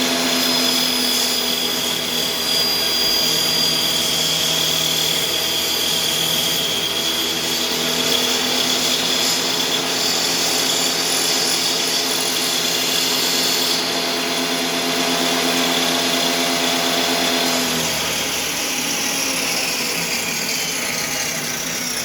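Table saw running steadily while cutting a rabbet in wood. About 18 seconds in it is switched off and the motor winds down, falling in pitch.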